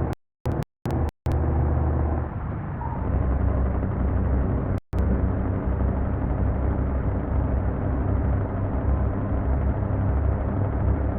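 Heavy truck's diesel engine running steadily. In the first second or so the sound cuts in and out several times, with one more short dropout about five seconds in.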